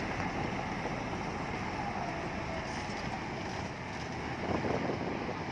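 Bulldozer's diesel engine running steadily under load, with a rumbling clatter and a brief louder rattle about four and a half seconds in.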